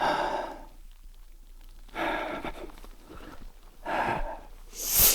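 A man breathing hard, with four heavy puffing breaths about every one to two seconds; the last is the sharpest.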